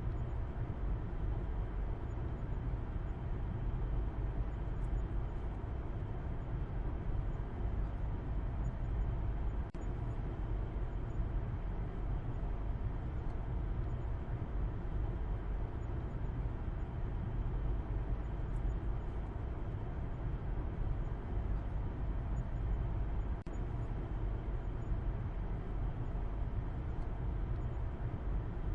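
A car driving along, a steady low rumble of road and engine noise with no changes.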